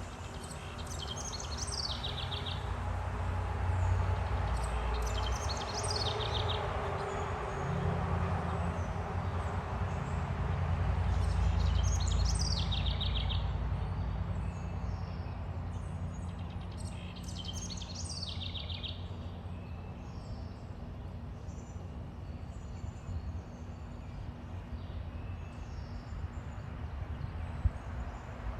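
A small songbird singing four short phrases, each sliding down in pitch and ending in a quick trill, spaced a few seconds apart. Under it runs a steady low rumble that swells and fades twice.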